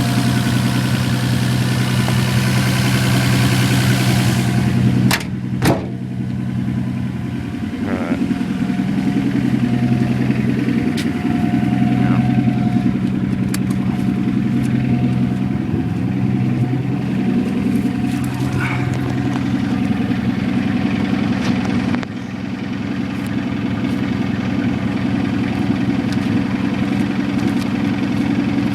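Toyota 7M-GTE turbocharged inline-six idling steadily. A loud hiss sits over it for the first five seconds and stops, followed by two sharp knocks half a second apart.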